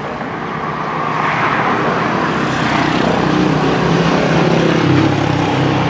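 Mitsubishi Lancer's EFI four-cylinder engine running with the hood open, getting louder from about two seconds in.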